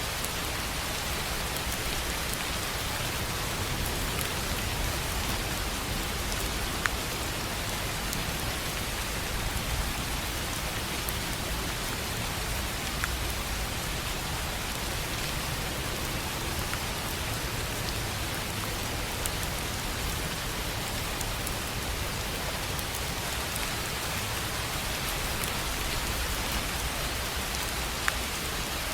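Steady rain falling on a tin roof, with a few louder single drops striking now and then.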